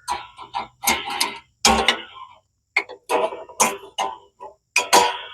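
Irregular metallic clanks and knocks, a dozen or so, some ringing briefly, as metal lawn-tractor parts and tools are handled and bumped.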